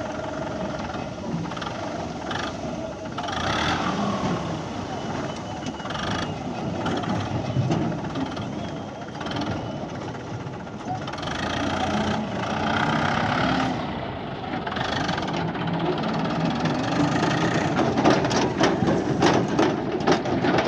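An engine running steadily with people talking over it.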